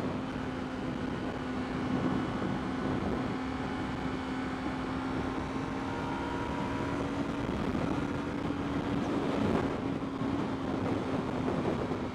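Yamaha YZF-R3's parallel-twin engine holding a steady drone at highway cruising speed, heard from the rider's position under heavy wind and road noise.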